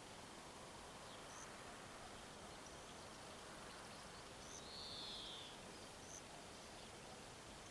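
Faint outdoor ambience with a steady hiss. Short high chirps repeat about every one and a half seconds, and a longer, clearer bird call, rising then falling, comes about five seconds in.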